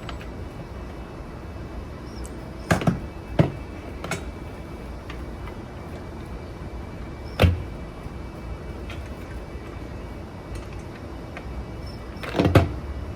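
Scattered metallic clunks and knocks from a manual tire changer's bead breaker being worked against a motorcycle tire to break the bead off the rim. There is a pair of knocks about three seconds in, a heavier one midway and a cluster near the end.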